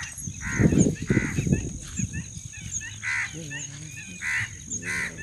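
A bird calling repeatedly: five short calls, irregularly spaced. A low rumble about half a second to a second and a half in.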